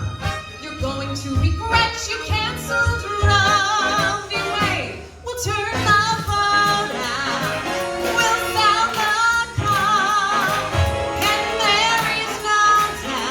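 A singer belting a show tune with strong vibrato on held notes over instrumental accompaniment.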